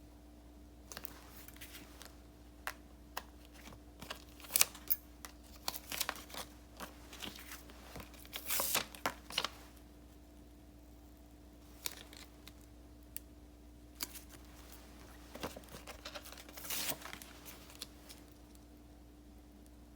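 Paper and sticker sheets being handled during journal decorating: scattered light clicks and taps, with a longer paper rustle about eight seconds in and another near the end.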